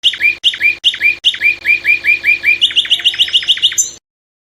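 Songbird singing a run of repeated sharp notes, about four a second, then quickening to about six a second, before stopping abruptly near the end.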